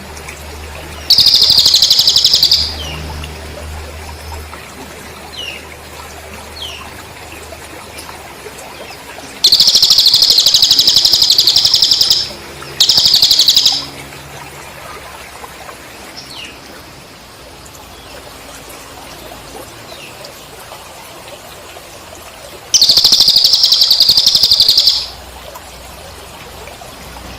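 Looped training recording of Cililin birdsong with crickets: four loud, fast-buzzing high trills, each one to three seconds long, with faint short chirps in the gaps between them.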